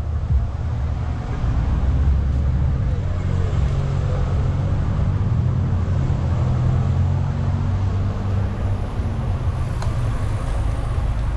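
Steady low rumble of motor vehicles running, with street traffic noise.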